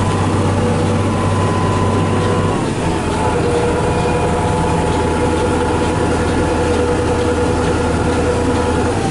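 Farm tractor's diesel engine running steadily. Its pitch drops about two and a half seconds in and shifts again near the end.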